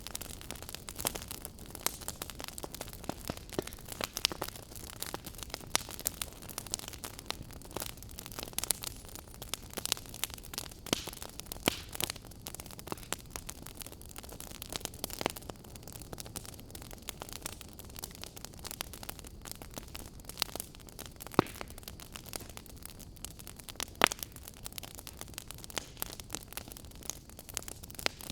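Fire crackling: a steady hiss full of quick irregular snaps and pops, with a few louder pops now and then.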